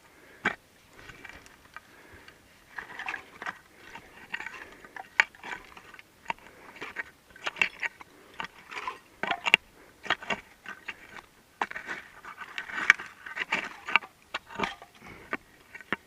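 Irregular crunching and scraping, with many sharp clicks and knocks: footsteps on loose rocky ground and the rustle of gear against a chest-mounted camera.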